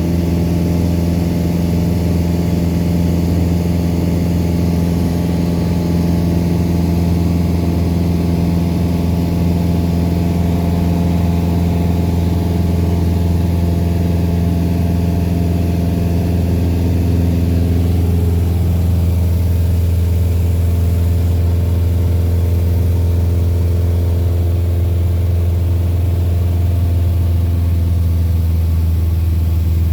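Cessna 172's piston engine and propeller droning steadily in flight, with a slight change in engine note about eighteen seconds in.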